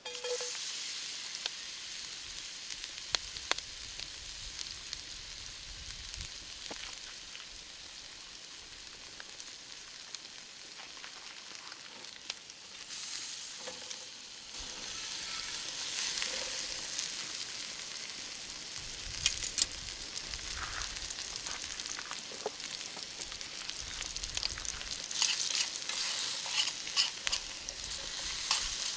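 Food sizzling in oil in a small frying pan over a wood fire: a steady sizzle with scattered sharp pops, which come thicker near the end.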